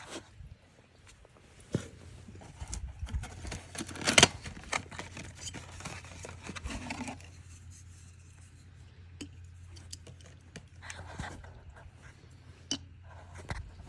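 Tools and parts being handled during an oil change: a run of irregular clicks, knocks and scrapes, the loudest knock about four seconds in, over a low steady hum that starts about two seconds in.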